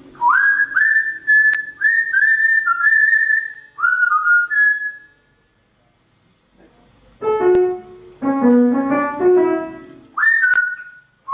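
A pet bird whistling a run of short notes that each slide up and then hold, several in a row, then again near the end. In between, about seven seconds in, a short keyboard-like melody of stepped notes plays for a few seconds.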